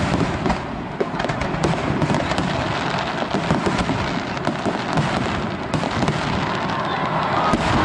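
Fireworks bursting in rapid succession, a dense crackle of many small reports over a continuous rumble.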